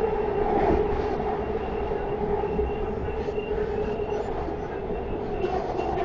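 MARTA subway rail car running along the track, heard from inside the car: a steady rumble with a steady whining tone over it.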